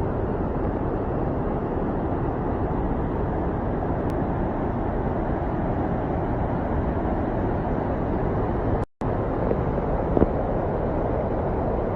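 Steady rushing noise with no distinct tones, heaviest in the low end, cut off by a brief silence about nine seconds in before resuming.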